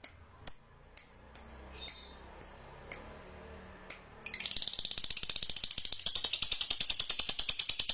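Recorded songbird calls: a series of short, sharp, high chip notes about every half second, then from about four seconds in a fast, dense, high chatter that gets louder about six seconds in.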